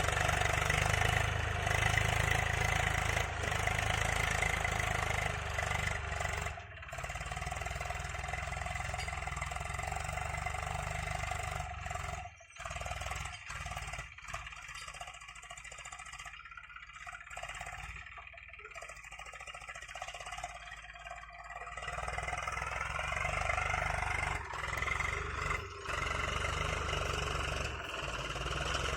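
Eicher 380 tractor's diesel engine running steadily while pulling a cultivator in second gear. It fades to a quieter level in the middle and grows louder again near the end.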